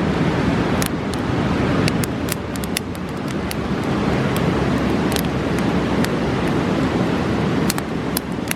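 A fast river rushing steadily, with a wood campfire crackling and popping over it in sharp, irregular snaps.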